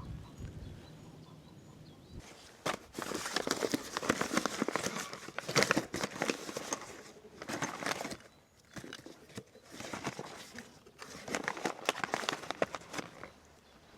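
Bursts of rustling and crinkling mixed with sharp clicks and knocks, coming and going every second or two with short quiet gaps, as things are handled.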